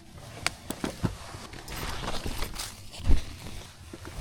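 Handling and movement noises: a few sharp clicks and knocks, a stretch of rustling in the middle, and a heavy thump about three seconds in.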